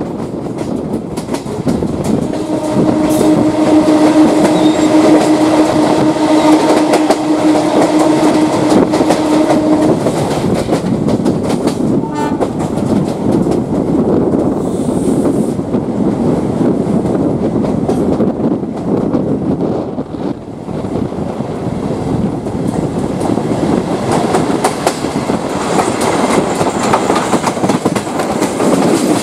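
Indian Railways train running on the tracks, with steady rolling noise and wheel clatter, heard from on board the moving train. A train horn sounds one long steady note from about two seconds in until about ten seconds.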